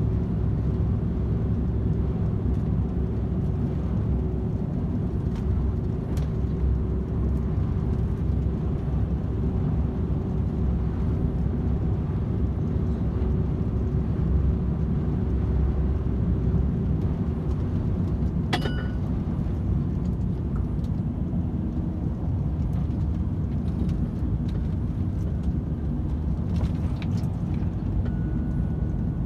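DAF XF 510 truck's PACCAR MX-13 straight-six diesel cruising at motorway speed, a steady low engine and road rumble with a faint steady drone on top. A single short sharp click sounds about two-thirds of the way through.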